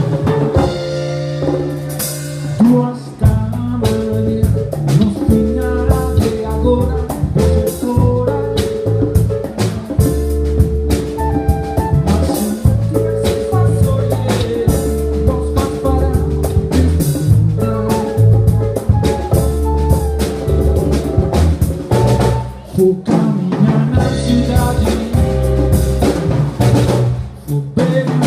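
Funk band music: a drum kit drives a steady beat under a busy bass line and held melodic notes, with brief breaks about three seconds in and again about twenty-three seconds in.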